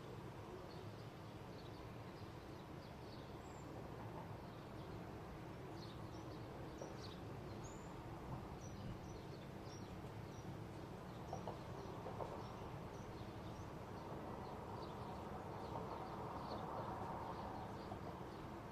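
Songbirds chirping faintly, many short high calls scattered throughout, over a steady low outdoor background rumble that swells for a few seconds near the end.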